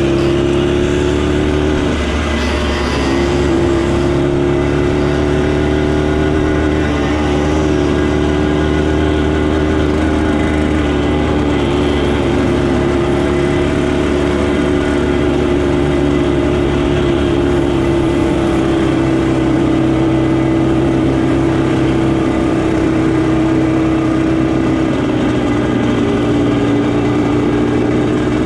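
Motorcycle engine running steadily, its pitch drifting only slightly.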